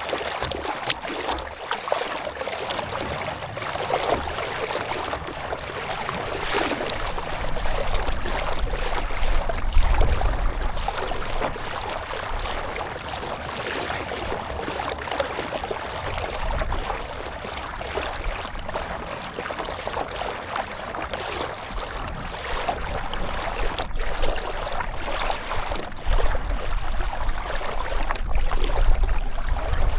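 Water splashing and lapping around a canoe on open water. Wind rumbles on the microphone about a third of the way in and again near the end.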